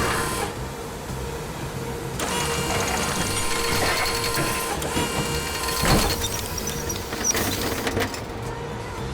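Animated machine sound effects: a steady mechanical whirring hum with rattling, and a single loud knock about six seconds in.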